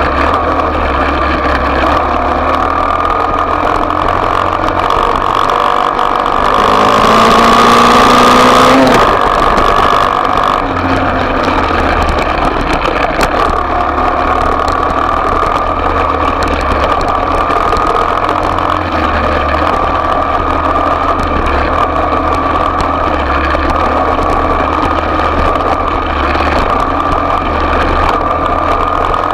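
Small off-road motorcycle engine running steadily. It revs up with rising pitch about seven seconds in, then drops back to a steady run.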